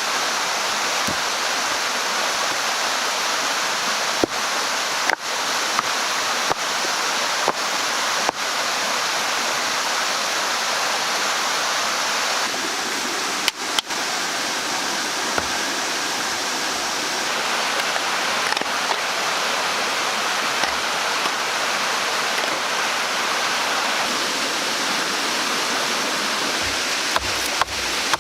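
Steady rushing of running water, like a stream, with a few scattered sharp clicks that come more often near the end.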